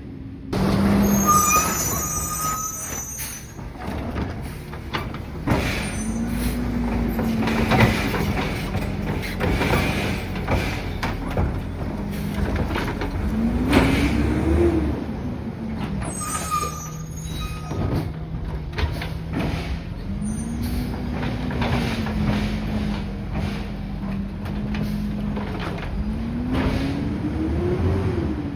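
Peterbilt 520 garbage truck engine running with its revs rising and falling repeatedly, peaking about every fourteen seconds, mixed with frequent metallic clanks and knocks.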